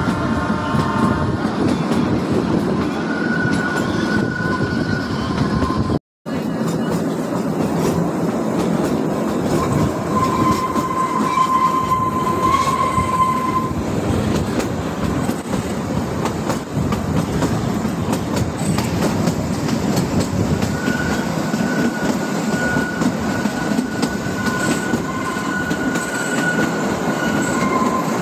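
Kalka–Shimla narrow-gauge toy train running, a steady rumble of wheels on rail. A thin high squeal from the wheels comes and goes several times. The sound cuts out for a moment about six seconds in.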